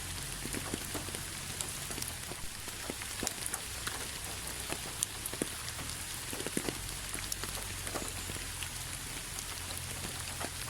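Steady rain, a soft even hiss with many individual drops ticking at irregular moments, over a steady low rumble.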